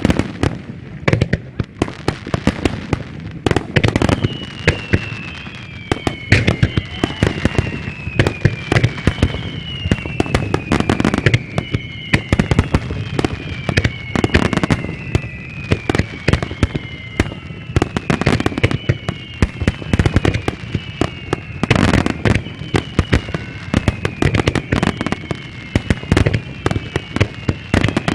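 Starmine fireworks going off in rapid succession, dense overlapping bangs and crackles. From about four seconds in, high whistles that fall in pitch repeat every second or two over the bangs.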